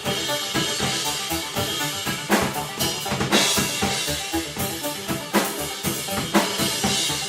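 A band playing live: a drum kit with kick, snare and cymbal crashes drives steadily under pitched instruments.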